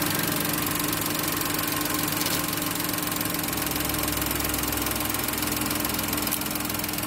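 Toyota Raize's 1.0-litre turbocharged three-cylinder engine idling steadily, heard close up from the open engine bay.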